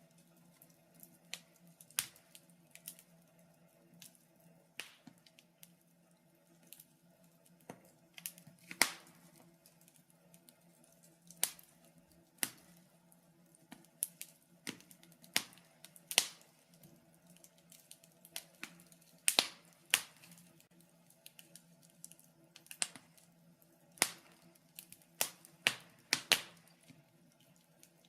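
Wood fire crackling in a fireplace: irregular sharp pops and snaps, a few louder ones standing out, over a faint steady hum.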